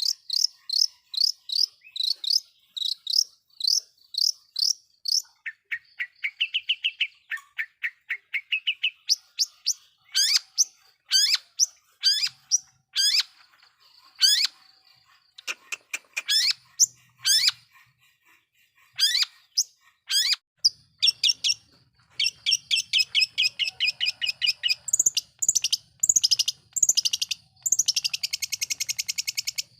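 Long-tailed shrike (cendet) singing: series of sharp, quickly repeated high notes in phrases that change every few seconds, turning to a dense fast chatter near the end.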